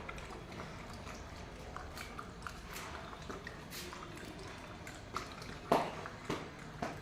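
A dog eating: scattered small crunches and clicks, with a few sharper knocks in the last couple of seconds, the loudest about five and a half seconds in.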